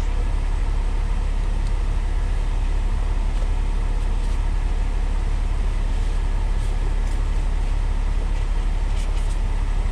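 Steady low rumble of an idling semi-truck diesel engine, with a few faint clicks from the drone's box and packaging being handled.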